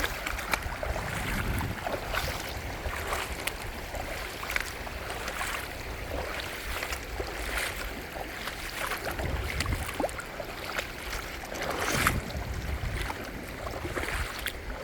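Footsteps on wet riverbank stones, a string of irregular clicks and knocks, over a low rumble of wind on the microphone.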